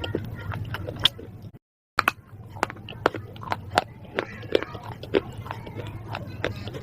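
Close-up crunching and chewing of something crisp: a quick run of sharp, crackling crunches over a low steady hum, broken by a brief dead-silent gap about one and a half seconds in.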